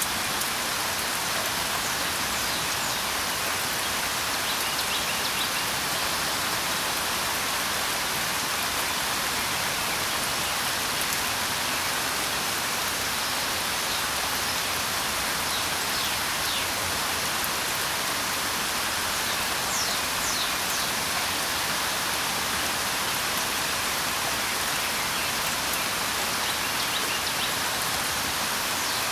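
Steady, even rainfall hissing on surfaces, with a few faint, brief high bird chirps now and then.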